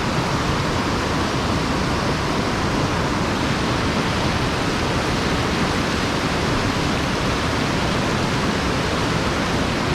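Steady rush of mountain-stream water falling over an erosion-control (sabo) dam and running through the pool below, with no change in level.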